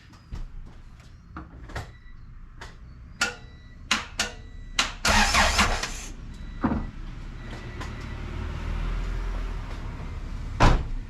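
A series of sharp clicks and knocks, then the starter motor cranking the Honda B18C Type R engine over for several seconds without it firing: the engine is being turned over to prime the oil before its first start. The cranking cuts off with a sharp knock near the end.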